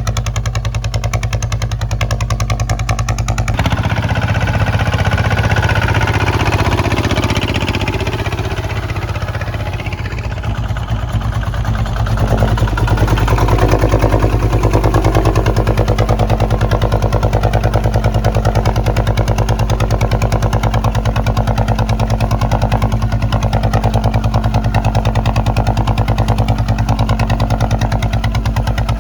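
Kubota ZT155 single-cylinder diesel engine running steadily with a fast, even firing beat while plowing. Its note changes from about four seconds in, dips around ten seconds, and settles again, a little louder, at about twelve seconds.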